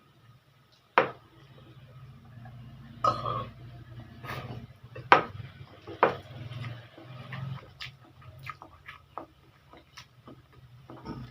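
Sounds of eating a plate of spicy instant pancit canton noodles: utensils clicking and scraping against the plate, with chewing and slurping mouth noises. The sharp clicks come at irregular intervals, loudest about a second in and again around five and six seconds in.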